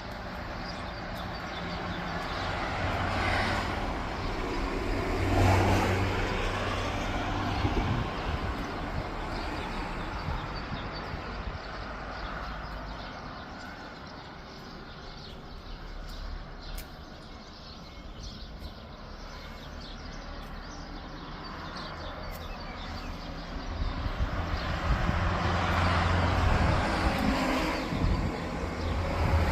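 Road traffic: a vehicle passes a few seconds in and another near the end, over a steady low rumble.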